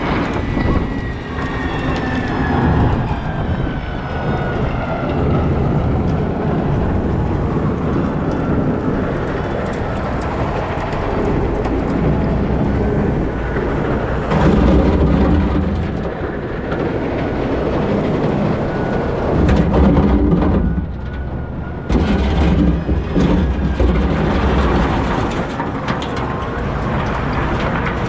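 Cat 972M XE wheel loader working under load: its diesel engine runs continuously, a whine falls in pitch near the start, and there are several louder surges about halfway through and near the end.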